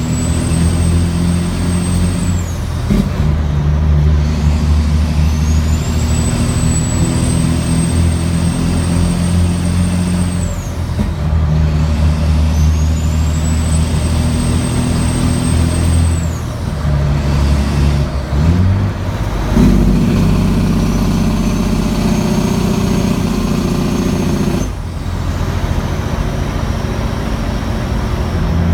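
Caterpillar C15 diesel pulling hard under a heavy load, its single turbo whistling high: the whistle rises, holds and drops away four times, with the engine drone dipping between pulls as the truck goes up through the gears.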